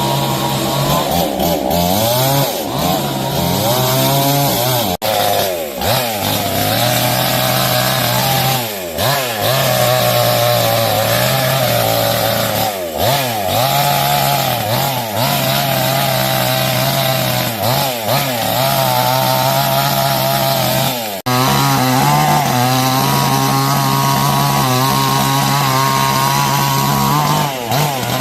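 Chainsaws cutting through the trunks of fallen trees, the engine pitch dropping as the chain bites into the wood and rising again between cuts, over and over. The sound breaks off abruptly twice.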